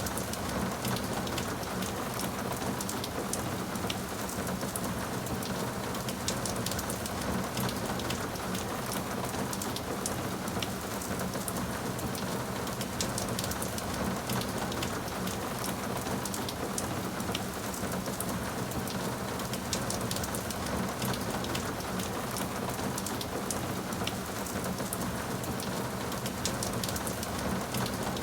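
Steady rain falling on a surface, an even hiss with many small drop ticks, unchanging throughout.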